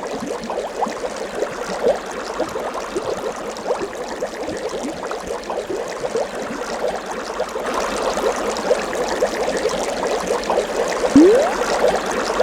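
Water bubbling and trickling, as many quick little bubble pops over a steady wash. About eleven seconds in, a single short sound glides upward in pitch.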